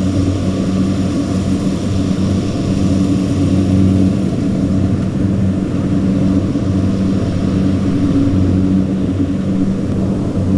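Kubota farm machine's diesel engine running steadily, a loud even drone.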